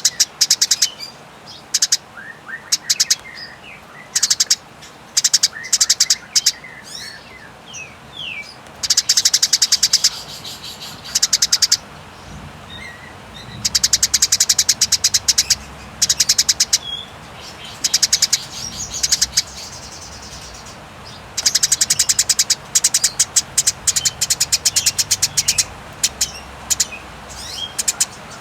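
Eurasian tree sparrow in aggressive 'fighting' mode, giving long, rapid chattering rattles of many high notes a second in runs of several seconds, with short chirps between the runs.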